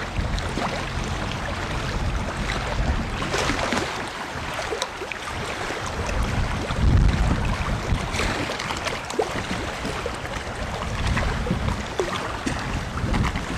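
Outdoor wind rumbling and buffeting on the microphone over a steady hiss, with scattered small ticks and clicks.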